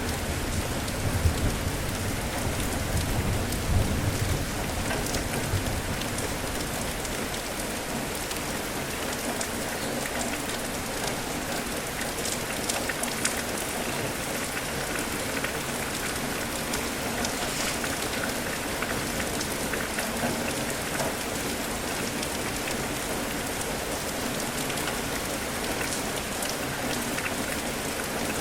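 Steady rain falling, with a low rumble of distant thunder in the first few seconds.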